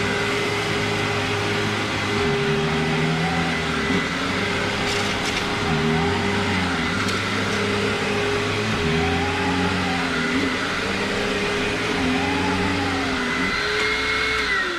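Hoover WindTunnel Self-Propelled Ultra upright vacuum cleaner running with a loud whine, its motor tone dipping and rising in slow arcs every couple of seconds as it is worked back and forth, with its brush roll rattling. The motor winds down at the very end.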